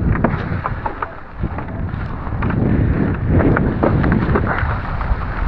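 Gusty wind buffeting the microphone: a loud low rumble that swells and dips, with scattered short crackles.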